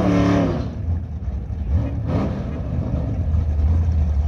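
A loud engine note falling in pitch and fading in the first second, then a steady low rumble of car engines idling at the drag strip.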